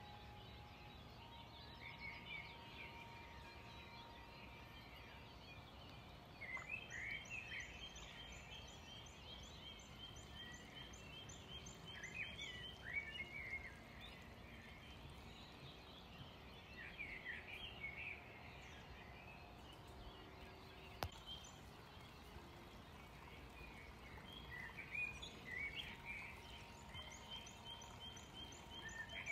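Faint outdoor background with small birds chirping and trilling off and on, and a single sharp click about two-thirds of the way through.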